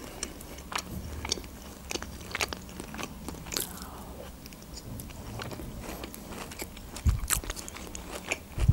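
Close-miked ASMR eating sounds: a person biting and chewing food, with many sharp little mouth clicks scattered throughout and a couple of low thumps near the end.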